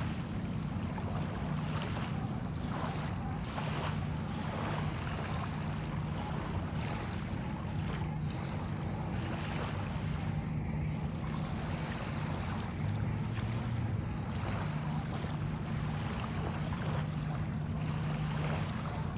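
Small bay waves washing onto a sandy shore again and again, each wash a swell of hiss about a second or two long, with wind and a steady low hum underneath.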